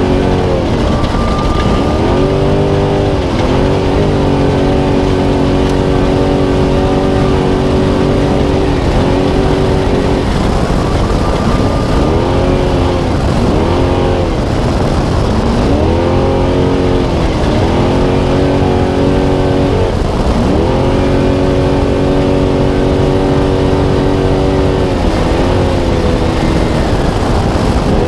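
Spec Trophy Truck's V8 engine running at sustained high revs under racing load, with the revs dipping and climbing back several times as the throttle is lifted and reapplied. A steady rush of wind, tyre and chassis noise runs underneath.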